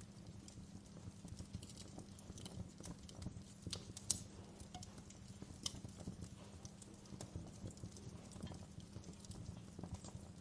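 Wood fire crackling in a fireplace: a steady low rumble of burning with frequent irregular snaps and pops of the embers, the sharpest about four seconds in and again near six seconds.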